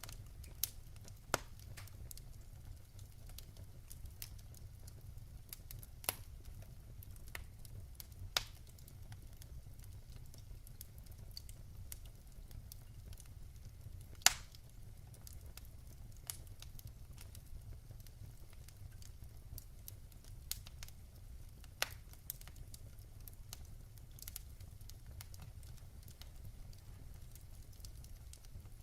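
Wood fire burning in a fireplace, crackling with irregular sharp pops over a low steady rumble. The loudest pop comes about halfway through.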